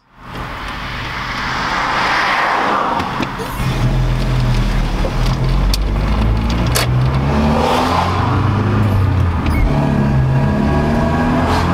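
A 1992 Volvo 240's B21F inline-four engine heard from inside the cabin as the car pulls away and accelerates. A hiss of road noise fills the first three seconds, then the engine's low drone grows louder, its pitch shifting in steps as it runs up through the five-speed manual's gears.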